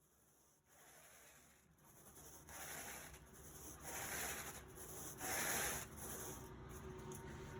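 Carpet rake being drawn back and forth through carpet pile: faint scratchy rubbing strokes that grow louder, with the strongest passes about four and five and a half seconds in.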